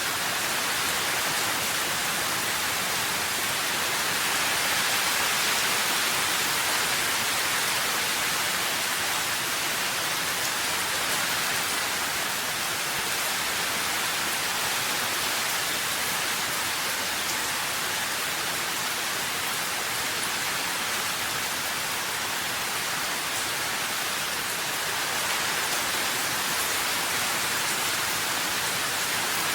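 Steady rain falling, an even hiss of many drops with no distinct single drops or thunder.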